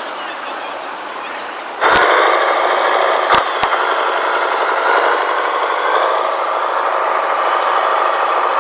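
Electric motor and gearbox of a radio-controlled model construction machine whirring, which jumps suddenly louder about two seconds in as the motor starts working, with two sharp clicks a second or so later.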